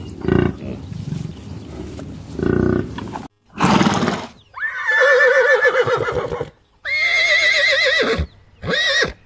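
Animal calls: after an abrupt cut, three loud drawn-out calls with a wavering, quavering pitch, the first and longest lasting about two seconds, the last short.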